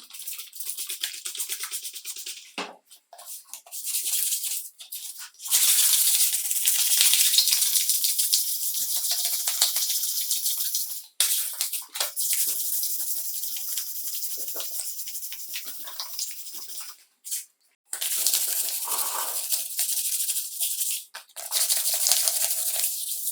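Rattling for a few seconds, then long bursts of hissing spray, four of them, each starting and cutting off sharply.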